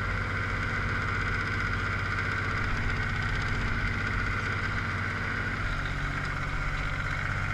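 1982 Ford 1900 diesel tractor engine running steadily.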